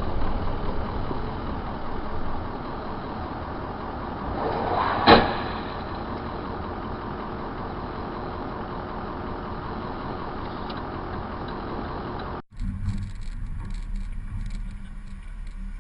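Vehicle road and engine noise recorded by a dash cam, with a sudden loud crash about five seconds in: a vehicle collision. After a brief dropout near the end, a different recording of steady driving noise follows.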